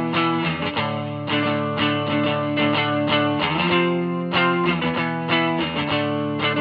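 G&L Legacy USA electric guitar with Alnico V single-coil pickups, played through a Hiwatt Custom 20 2x10 tube combo with Fane speakers. It plays chords that are re-struck every half second or so with a light overdrive.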